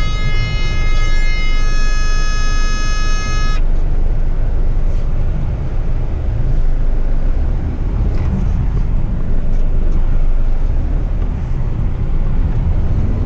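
Waste truck's in-cab warning alarm sounding a continuous high tone that cuts off suddenly about three and a half seconds in, over the low rumble of the truck's engine and cab. The driver suspects sensors wet from washing are setting the alarm off.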